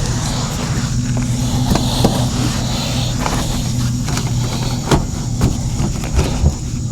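A steady low hum throughout, with scattered knocks and clicks from handling parts and carpet inside a car, the sharpest knock about five seconds in.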